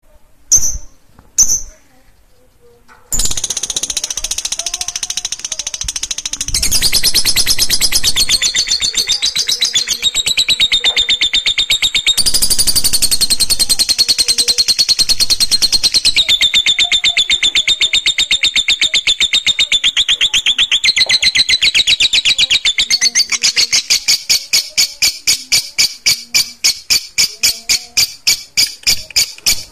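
Lovebird giving two short chirps, then from about three seconds in its ngekek: one long unbroken, high-pitched rapid trill that shifts pitch several times and breaks into distinct pulses, about seven a second, near the end. This long trilling song is used to provoke other lovebirds into singing.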